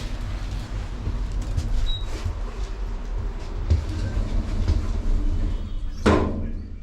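London Underground train running: a steady low rumble with scattered clicks from the wheels on the rails. A sudden loud burst of noise comes about six seconds in and fades quickly.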